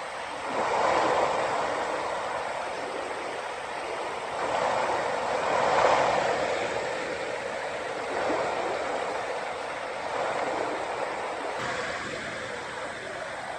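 Flowing stream water rushing steadily, swelling louder every few seconds.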